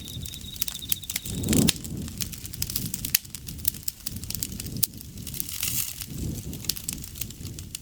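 Wood campfire crackling and popping with sharp snaps over a low rush of flame, with a louder low swell about one and a half seconds in. An insect's high, pulsing trill runs through the first second and a half, then stops.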